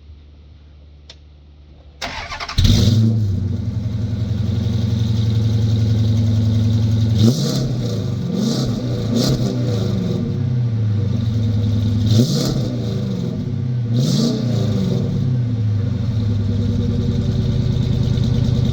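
Dodge Charger Pursuit engine cranking and catching about two seconds in, then idling with several throttle blips that rise and fall in pitch before settling back to idle. The exhaust has its rear muffler removed.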